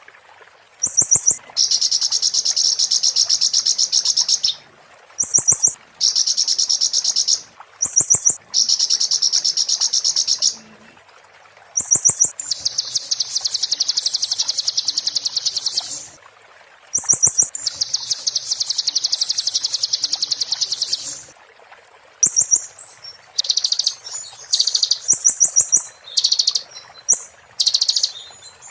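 Konin (kolibri ninja sunbird) singing in the 'muntah beling' style: long, very rapid, high-pitched trills of two to four seconds, each led by a short higher note, repeated with brief pauses, breaking into shorter choppy phrases near the end.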